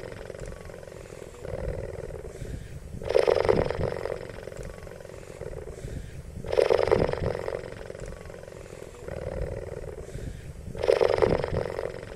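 Cheetah making a rasping, pulsing vocalization: a loud burst about every three and a half seconds, with a quieter one in between each.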